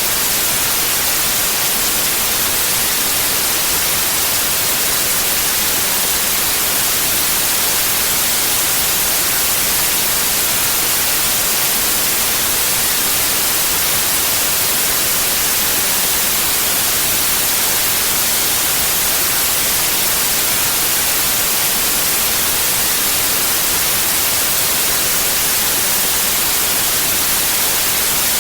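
Steady white noise: an even, unchanging hiss spread across all pitches, brightest in the highs, with no tones or events.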